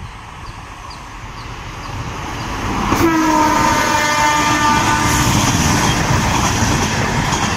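An express passenger train approaching and passing at speed, its rolling rumble growing louder. About three seconds in, the electric locomotive's horn blares for about three seconds over the rush and rattle of the passing coaches.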